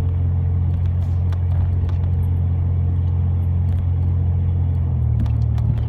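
Truck driving, heard from inside the cab: a steady low engine and road hum.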